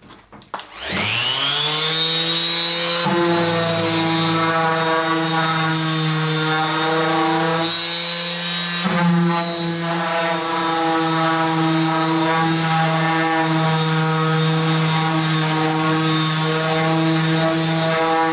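Electric power tool motor spinning up with a quick rise in pitch about a second in, then running at a steady high speed, its tone shifting briefly around three and nine seconds in, as if the load on it changes.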